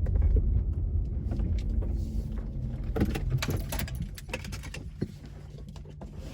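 1995 Subaru Legacy wagon rolling to a stop: the low road and engine rumble fades over a few seconds and settles into a steady idle hum. Scattered clicks and rattles sound inside the car while it slows.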